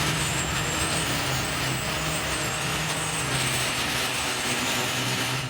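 Steady running noise of a train: an even rush of wheel and track noise over a low engine hum, cutting off suddenly at the end.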